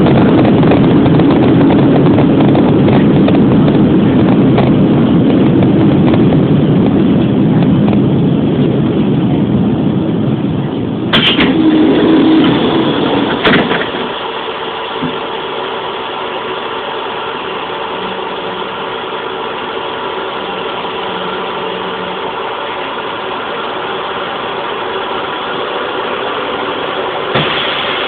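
An electric commuter train heard from inside the carriage as it slows to a stop: a loud rolling rumble of wheels on the rails that eases off, two sharp clunks about 11 and 13 seconds in, then the train stands with a quieter steady electrical hum. Near the end a sudden louder sound breaks in.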